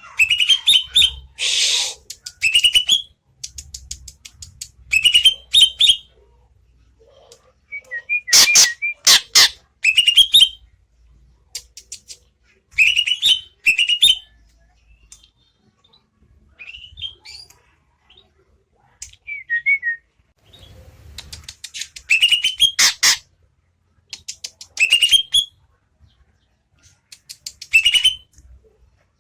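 A big green leafbird (cucak ijo) in full song, singing short bursts of quick rising whistled notes, a phrase every couple of seconds with brief pauses between. About a third of the way through come a few loud, sharp sounds.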